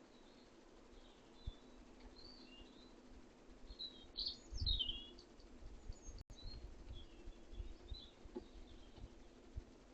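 Small songbirds giving short, high chirps on and off, a few in a quick cluster about halfway through, over faint outdoor background noise with some low rumbles.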